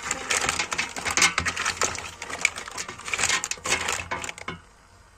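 Rapid, irregular clicking and rustling that stops suddenly near the end.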